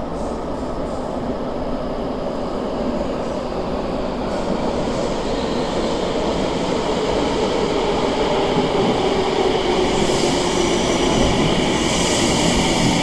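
Tsukuba Express electric train approaching and running into the platform, its running noise growing steadily louder. The sound turns brighter about ten seconds in, as the cars come alongside.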